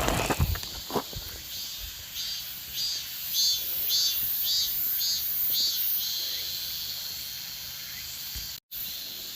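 Insects chirping: a run of short high-pitched chirps, about two a second, fading into a steady high buzz after the middle.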